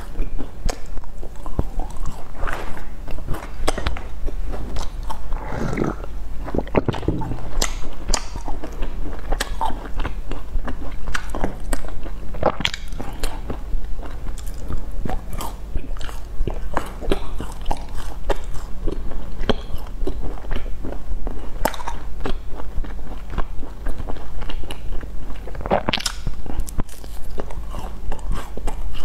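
Close-up chewing and biting of sesame-coated glazed pastry, with many short sharp clicky mouth sounds all through, over a steady low hum.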